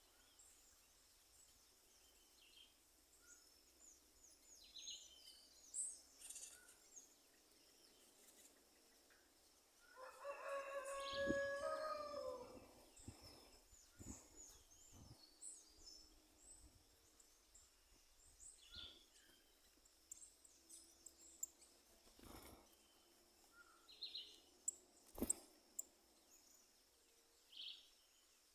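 A rooster crows once, about ten seconds in, a call of roughly three seconds that falls in pitch at the end. Faint, short chirps of small birds come and go throughout, with a few sharp knocks near the middle and end.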